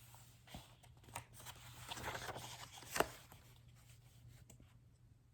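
Faint rustling and handling of a children's sound book, with a few light clicks and one sharper click about three seconds in.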